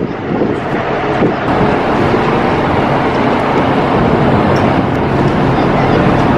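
Ferry engines running under way, a steady loud drone with a constant hum.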